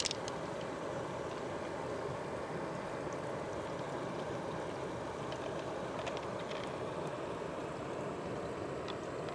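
Steady rush of flowing water with a sharp click at the start and a few faint clicks and taps.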